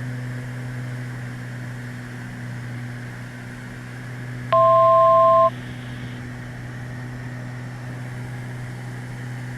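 Beechcraft Baron G58's twin piston engines droning steadily in the cockpit, heard through the intercom. About halfway through, a loud two-note electronic beep sounds for about a second.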